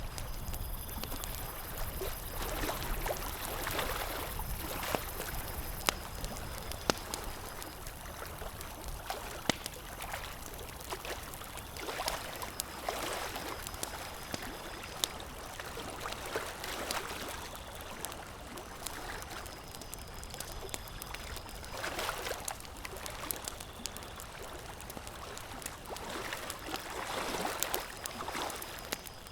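Campfire crackling, with a few sharp single pops, over a steady watery wash that swells and fades every few seconds.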